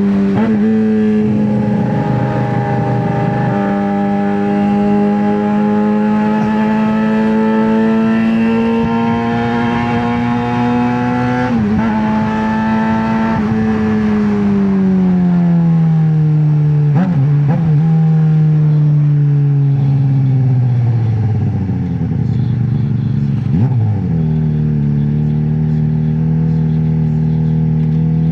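Straight-piped 2009 Suzuki GSX-R600 inline-four under way, engine note holding and slowly rising, then falling away as the bike slows. There are brief breaks as gears change, and after a drop in revs the pitch jumps back up near the end before settling lower.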